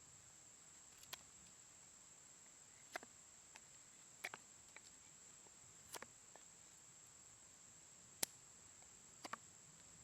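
Faint steady high-pitched insect trill, with six scattered sharp clicks or snaps at uneven intervals, the loudest about eight seconds in.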